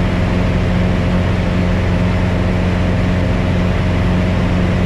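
Piper Cherokee 180's new four-cylinder Lycoming O-360 engine and propeller droning steadily in flight. The engine is being run at full power, full rich, to break it in.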